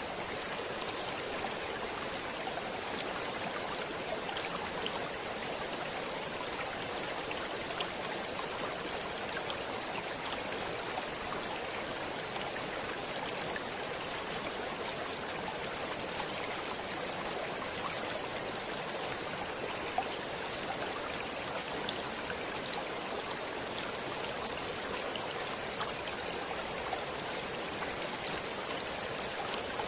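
Stream water flowing steadily: an even rushing hiss, with small splashes and drips scattered through it.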